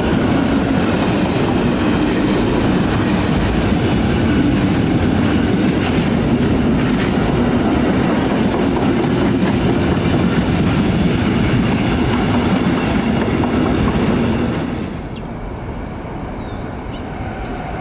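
Intermodal freight train of wagons loaded with semi-trailers rolling past close by, with a loud, steady rumble of steel wheels on the rails. About fifteen seconds in the last wagon goes by and the noise drops suddenly to a fainter trailing sound.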